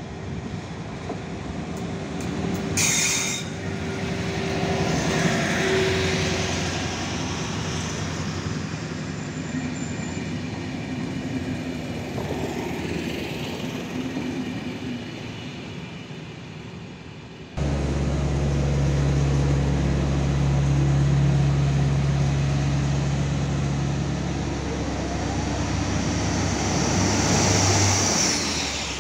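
SU42 diesel locomotive and its passenger coaches running past, with engine and wheel-on-rail noise and a brief high-pitched sound about 3 s in. After a sudden change about two thirds of the way in, an SA105 diesel railbus passes close by with a steady low engine drone that fades near the end.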